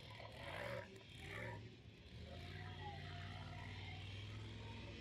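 A monster truck's engine running, heard faintly and muffled. It settles into a steady low drone about two seconds in, after some fainter, uneven sound at the start.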